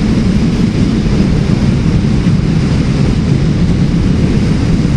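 Harley-Davidson motorcycle ridden at a steady speed: a steady low engine rumble mixed with wind rushing over the helmet-mounted microphone.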